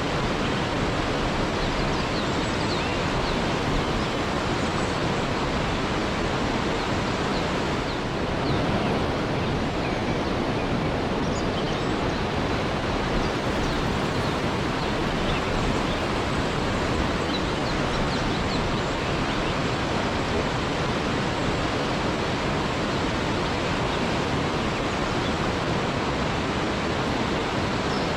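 Waterfall rushing steadily, with faint short high chirps scattered over it.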